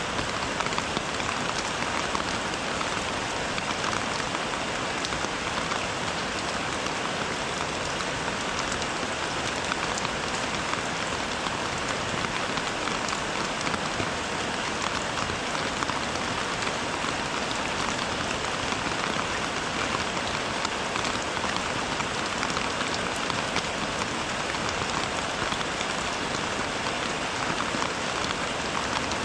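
Steady rain falling, an even hiss with many fine drop ticks running through it.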